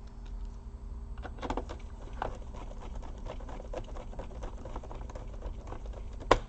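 Small plastic parts of a laptop being handled during reassembly: irregular light clicks and taps, with one sharper click near the end.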